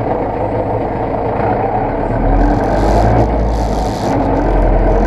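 Zetor tractor's diesel engine running steadily. About two seconds in, a deeper rumble swells and a hiss joins it.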